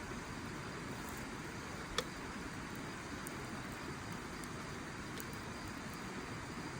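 Wood fire burning in a Snow Peak fire-pit stand: a steady rushing noise, with faint scattered crackles and one sharp pop about two seconds in.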